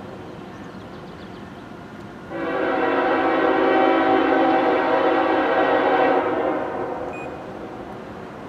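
Diesel locomotive's multi-chime air horn sounding a chord: one long blast starting about two seconds in and held for about four seconds before fading, over the low rumble of the approaching train.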